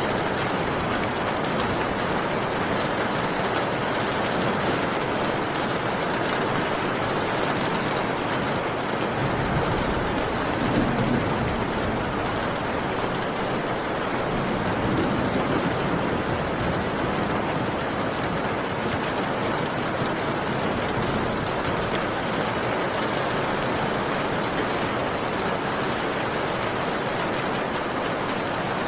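Steady rain, an even hiss of falling water. A low rumble of thunder swells in beneath it around the middle.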